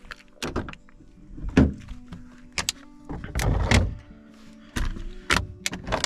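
Background music with held notes, over a series of knocks and clatters of gear being handled and set down during cleanup, the loudest knock about one and a half seconds in and a longer rattling stretch a little past halfway.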